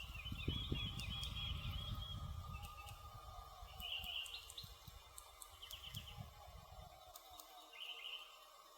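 Campfire crackling with scattered small pops over a low rumble that fades out near the end. A songbird sings short twittering trills three times: at the start, about four seconds in, and near the end.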